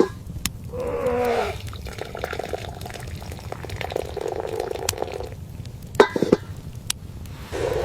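An animal calling several times in short calls that fall in pitch, over a steady low rumble.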